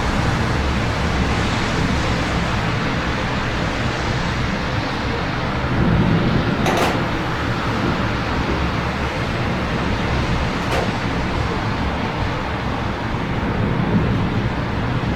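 Steady city ambience in the rain: a constant hiss of rainfall mixed with the low hum of road traffic. Two brief sharp ticks stand out, about seven and eleven seconds in.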